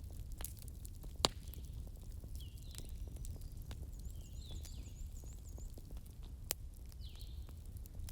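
Bonfire burning with a steady low rumble and scattered crackles, and sharp pops about a second in and again after six seconds. Birds chirp in the background: short falling calls and a quick run of high repeated chirps near the middle.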